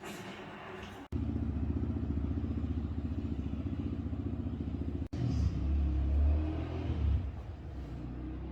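A machine running with a fast, even low pulse, broken by two abrupt edit cuts; after the second cut it runs louder and rougher, then eases off.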